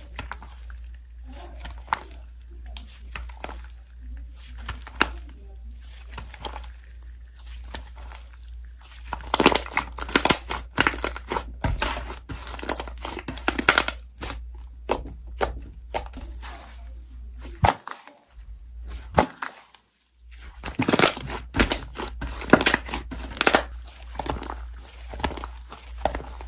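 Slime being squeezed and stretched by hand, giving dense crackling, popping and crinkling clicks. The crackling gets busier and louder about a third of the way in and again after a short silent break about three quarters through.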